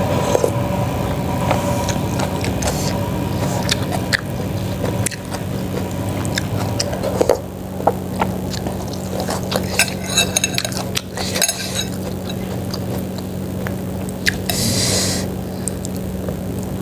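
Mukbang eating sounds: scattered clinks of a spoon against a bowl and mouth noises of eating chicken-feet soup, over a steady low hum.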